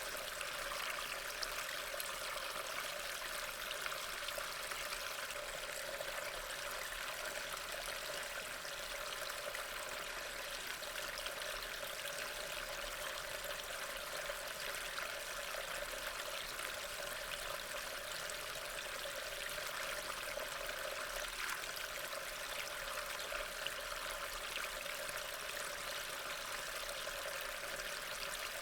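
Steady rain ambience: an even, unbroken hiss of falling rain with faint scattered drop ticks.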